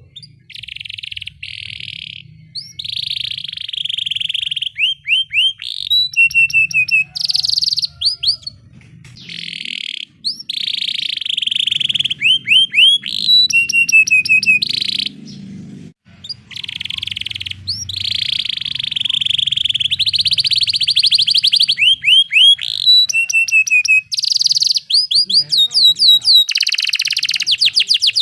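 Domestic canary singing: long, buzzy rolling trills alternate with runs of quick repeated sweeping notes, with only brief pauses between phrases.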